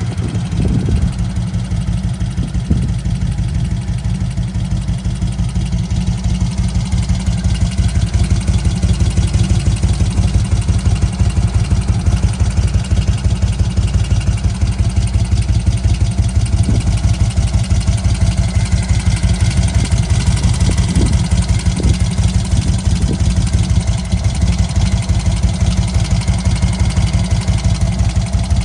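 1991 Magni Sfida 1000's Moto Guzzi air-cooled V-twin engine idling steadily, with an even, regular low exhaust pulse.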